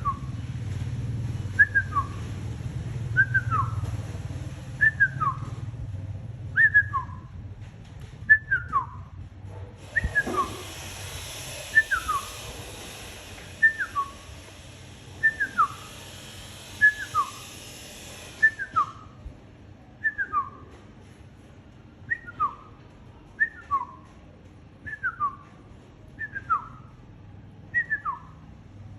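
A short two-note whistle, each note falling in pitch, repeated at a steady pace about every second and a half like a training loop for a pet bird to copy. A hiss comes in for several seconds in the middle.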